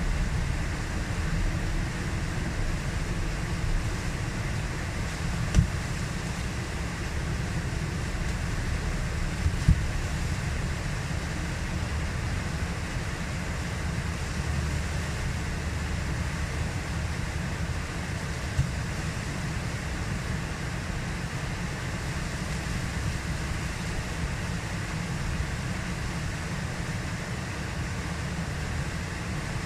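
Steady rush of whitewater in a river hole, with wind rumbling on the microphone. A few brief sharp knocks stand out, about five, ten and nineteen seconds in.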